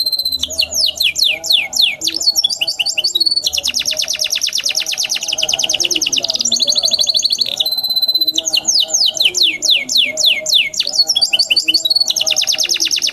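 Domestic canary singing a continuous song of fast rolling trills alternating with runs of rapid falling whistled notes. The same phrase sequence comes round again about every eight seconds.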